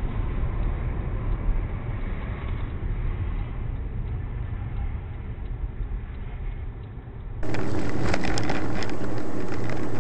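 Road and engine noise of a moving car picked up by a dash camera: a deep, steady rumble. About seven seconds in, it cuts suddenly to a louder recording with more hiss and scattered ticks.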